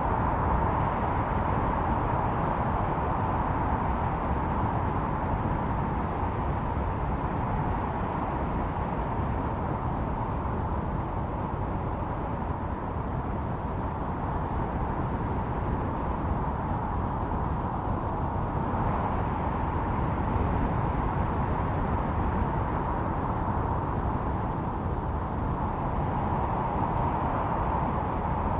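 Snowstorm wind blowing hard: a steady low rush with a whistling howl that slowly swells and fades, strongest at the start, about two-thirds of the way through and again at the end.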